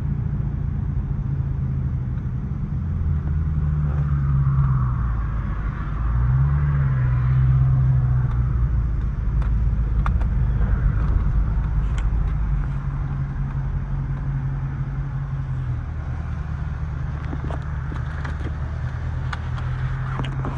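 SRT 392's 6.4-litre HEMI V8 running at low speed on its stock, still-muffled exhaust, the engine note dipping and rising a couple of times in the first eight seconds, then holding steady near idle.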